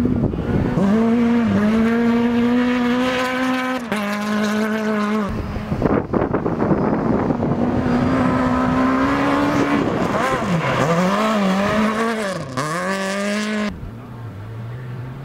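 Rally car engines held at high revs on a special stage, the pitch dipping and climbing again several times as the drivers lift and change gear. The sound switches abruptly a few times between cars, ending on a quieter, lower engine note.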